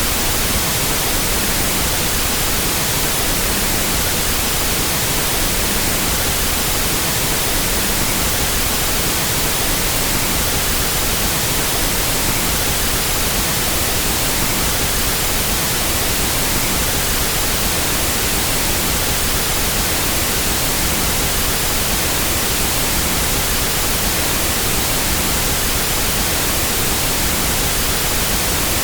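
Pink noise test signal for equalizing audio: a steady, even hiss across the whole frequency range that does not change.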